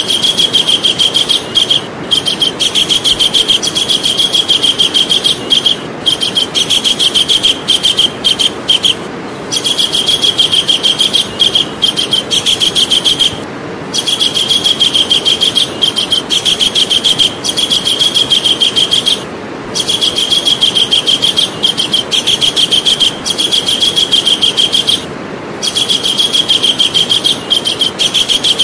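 Javan kingfisher calling: long runs of rapid, high-pitched notes on one pitch, broken by short pauses every few seconds.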